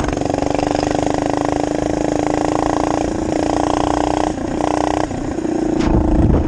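Minibike engine running steadily, its pitch creeping slightly upward, with a few brief dips in the throttle near the middle and later part.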